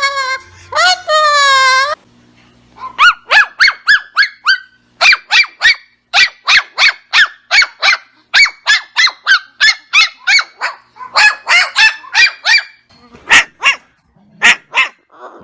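Animal barking: a fast run of short, sharp barks, about three a second with a few brief pauses, after two longer pitched calls near the start.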